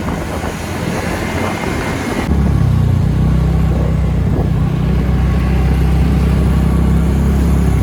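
TVS Ntorq scooter's single-cylinder engine running steadily on the uphill ride, with road and wind noise on the helmet microphone. About two seconds in, the sound turns suddenly louder and a steady low engine drone takes over.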